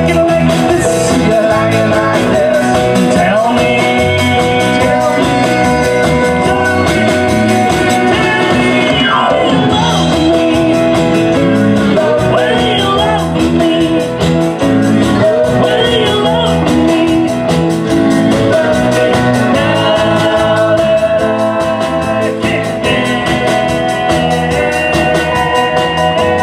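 Live rock-and-roll band playing an instrumental stretch, with held notes over a steady beat.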